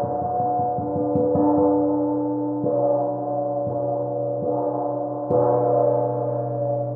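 Titanium gong played with a mallet: a rapid run of soft strokes in the first second and a half, then single strikes about a second apart, the loudest a little past five seconds in. Its many tones ring on and overlap.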